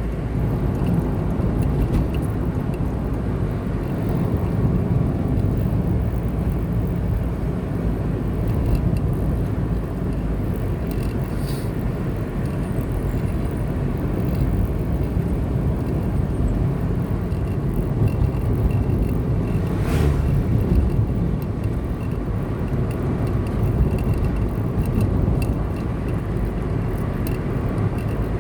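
Steady low rumble of a car driving on the road, engine and tyre noise, with a brief swish about two-thirds of the way through.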